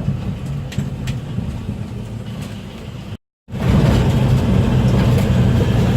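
Steady low rumble of a motor vehicle's engine. It breaks off abruptly about three seconds in and resumes louder straight after.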